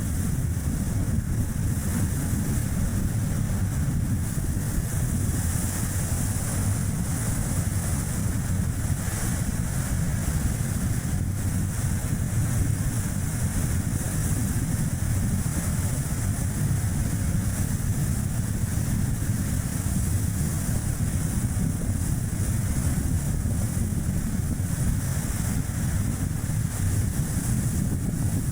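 Steady low road and tyre rumble of a Chevrolet Spark city car driving, with strong gusting wind rushing over the microphone.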